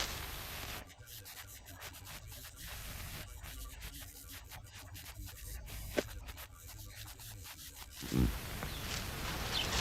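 Rubbing and scraping of straw render being worked onto a wall by hand, fairly faint at first, with a sharp knock about six seconds in and a low thump about eight seconds in, after which the scraping gets louder.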